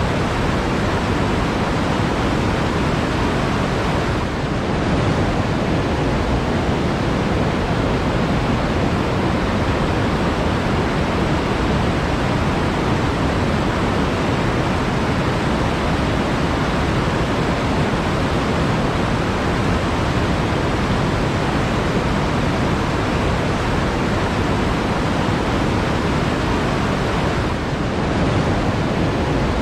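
Flowing water rushing steadily, a continuous even noise with no breaks or separate splashes.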